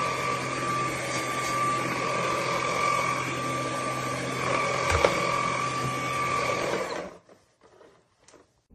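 Cordless stick vacuum's motor running at a steady pitch, a high whine over a rushing airflow hiss, then stopping abruptly about seven seconds in, followed by a few faint taps.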